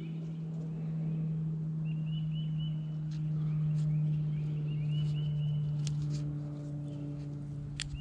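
A songbird sings three short phrases of quick repeated high chirps over a steady low hum, which is the loudest sound. Two sharp clicks come near the end.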